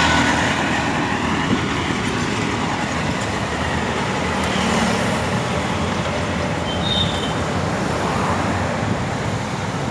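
City road traffic noise, a steady rumble of passing vehicles, with a brief high squeak about seven seconds in.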